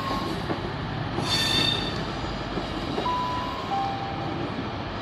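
A train running into the platform: steady rumble of wheels on rail, with a brief high-pitched wheel or brake squeal about a second in.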